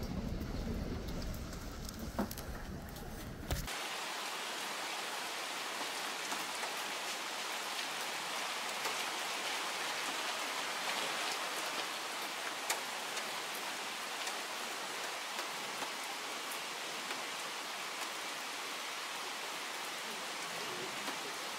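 Low rumbling ambience with a couple of knocks for the first few seconds, then an abrupt change to a steady, even hiss of heavy rain on the roof of an indoor practice hall, with faint scattered ticks.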